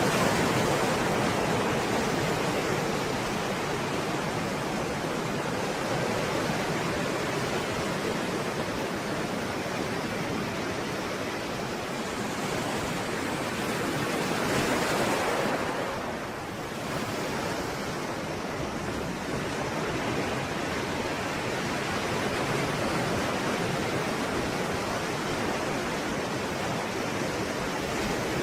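Stormy sea waves, a continuous rush of surf with one larger wave swelling and breaking about halfway through.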